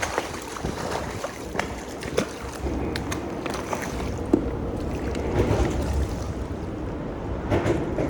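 Water sloshing around a fishing kayak, with scattered small clicks and knocks.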